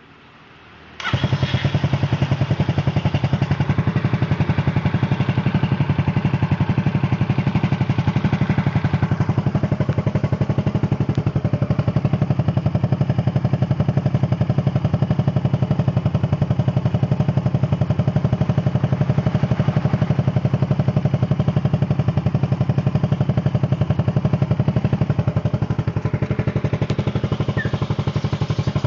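Yamaha Xeon 125 scooter's single-cylinder engine through a Nob1 aftermarket exhaust, coming in suddenly about a second in and then idling steadily with a fast, even exhaust beat.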